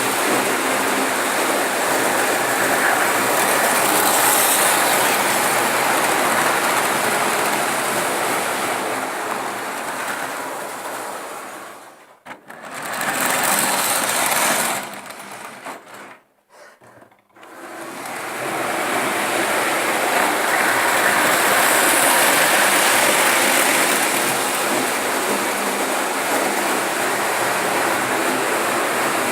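Märklin model train running on its track, the motor and wheels making a steady whirring clatter that fades away briefly twice around the middle and then comes back up to full loudness as the train passes close again.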